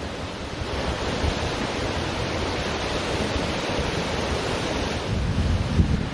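Ocean surf washing onto a beach, with wind buffeting the microphone. It swells near the end as a wave comes in.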